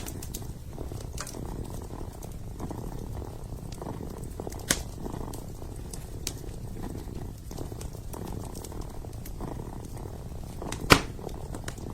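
A kitten purring steadily and closely, with a wood fire crackling; sharp pops stand out about halfway through and, loudest, near the end.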